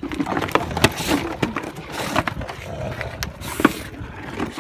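A dog biting and shaking a radio-controlled truck, its plastic body clattering and cracking in a run of irregular knocks and scrapes.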